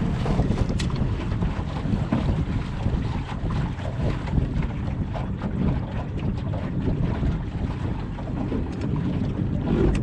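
Wind buffeting the microphone aboard a moving boat: a steady, rumbling rush of noise.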